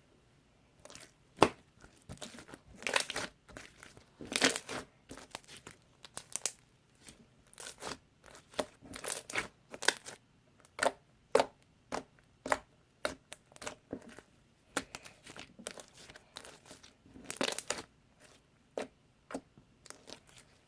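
Slime being squeezed and pressed by hand, giving irregular crackling pops and clicks, some in quick clusters.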